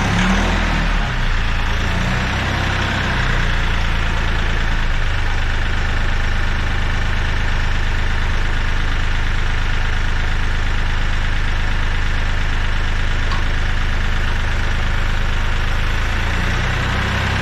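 Kioti CK3510 compact tractor's diesel engine running at a steady speed.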